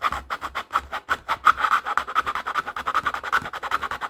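Hand file rasping back and forth in quick, even strokes, about six or seven a second, widening a cutout in the carrying case.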